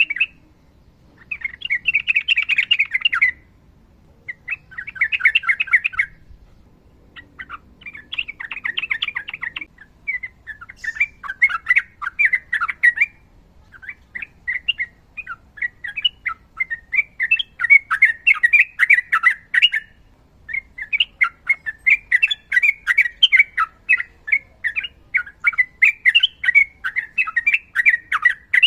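Sooty-headed bulbul (trucukan) singing: short bursts of quick chattering notes with pauses for about the first ten seconds, then a long, nearly unbroken run of rapid notes.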